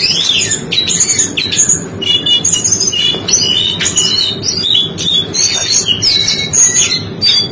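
A jongkangan (brown cingcoang) songbird singing a rapid, unbroken run of high whistled, chattering and trilling notes.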